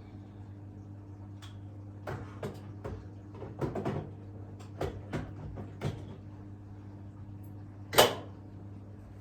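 A run of light knocks and clatters, with one much louder knock about eight seconds in, over a steady low electrical hum. These are kitchen parts being handled and set down during cleaning.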